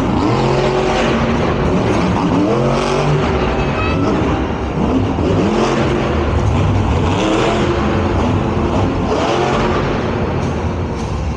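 Monster truck's supercharged V8 engine revving hard again and again, its pitch sweeping up and dropping back about every two seconds over a heavy rumble.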